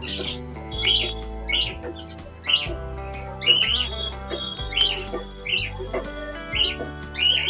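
Budgerigars chirping in short, repeated calls, about two a second, over background music with sustained chords.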